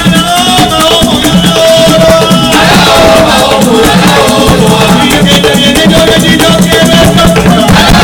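Live traditional music with maracas shaking steadily over drums and a held melody line.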